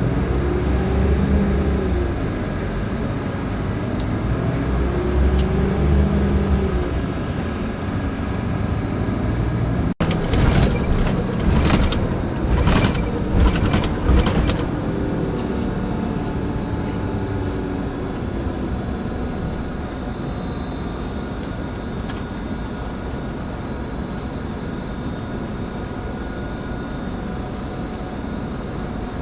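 Scania K410IB coach running on the road, its diesel engine and road noise rising and falling in pitch. About a third of the way in, a few seconds of clattering and knocking break in, then a steadier, quieter hum.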